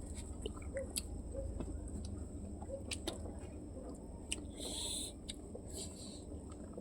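Quiet eating sounds: scattered small mouth clicks and smacks while chewing over a steady low hum, with a short hissing burst about four and a half seconds in.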